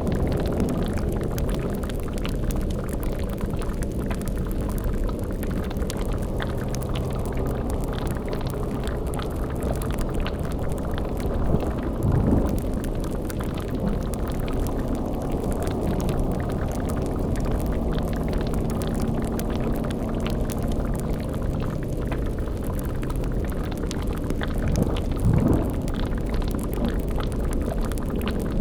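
Layered spooky sound-design ambience: a low bubbling rumble like a boiling cauldron under a steady eerie droning hum. Two brief rising swells stand out, about 12 and 25 seconds in.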